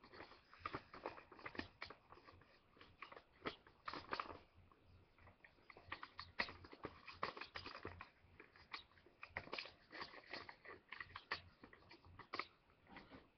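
Sheet of paper being folded and pushed into shape by hand, making faint, irregular crinkles and crackles.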